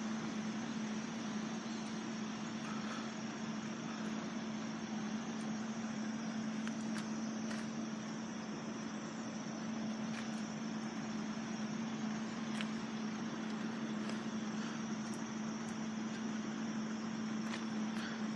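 Road vehicle engine idling steadily, with a constant low hum.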